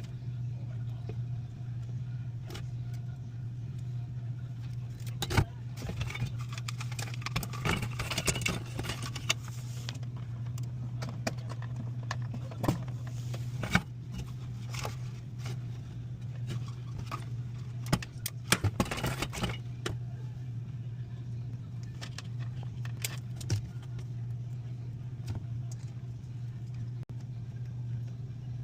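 Metal tools and parts clinking and rattling in irregular clicks, busiest in two stretches, over a steady low machinery hum.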